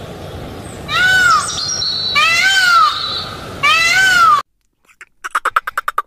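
Indian peafowl (peacock) giving three loud wailing calls, each rising and then falling in pitch. After a short silence, near the end, comes a rapid train of clicking pulses from bottlenose dolphins.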